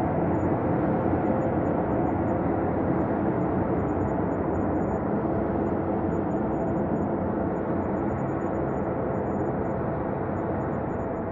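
Ambient space drone: a steady low rumbling wash with faint held tones underneath, easing off slightly toward the end.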